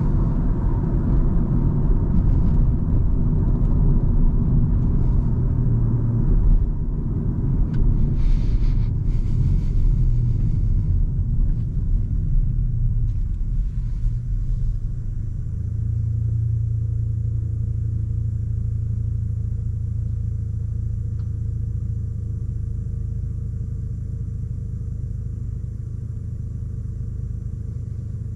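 A car driving, with a dense rumble of engine and road noise. About halfway through it eases into a quieter, steadier low engine hum.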